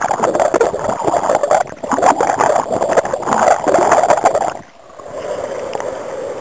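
River water rushing and splashing close to the microphone, with a brief drop-off about four and a half seconds in.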